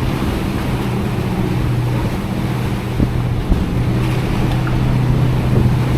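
An engine hums steadily at a constant pitch, with wind noise on the microphone.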